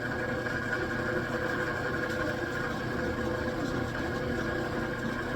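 Machine tool taking a cut in metal with a high-speed steel cutter: a steady running hum with a steady high whine over it. The machinist reckons the cutter is losing its cutting edge on this cut.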